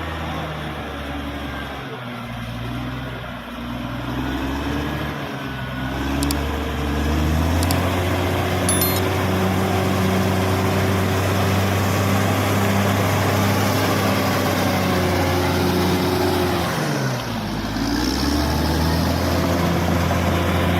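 Caterpillar D6R XL bulldozer's diesel engine working under varying load. The pitch wavers for the first few seconds, then holds higher and steady from about a third of the way in, dips briefly near the end and picks back up.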